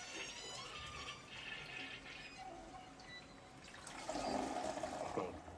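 A toilet flushing. The rush of water swells from about four seconds in and stops abruptly just before the end, after a quieter stretch.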